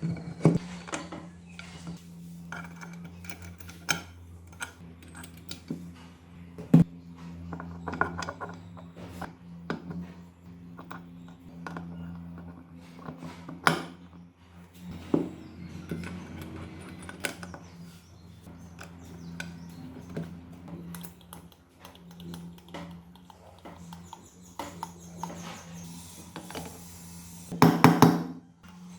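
Metal tools and engine parts clinking and knocking as they are handled during work on a motorcycle engine, with scattered single clicks over a steady low hum. A denser bout of clattering comes near the end.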